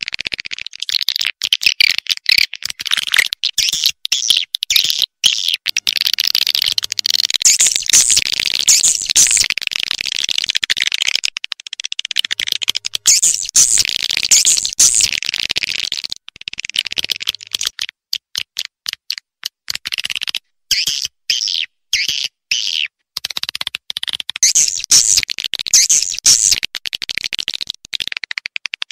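Swiftlet calls: dense, high-pitched chirping and twittering, the kind of recorded call played in swiftlet houses to attract the birds. The sound cuts out abruptly in many short gaps.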